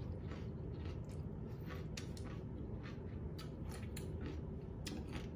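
A person chewing crunchy food close to the microphone: irregular crisp crunches and clicks, a few every second, over a steady low room hum.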